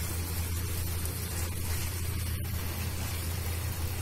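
Onion, capsicum and sauce mixture sizzling steadily in a non-stick frying pan as it is stirred with a silicone spatula, over a steady low hum.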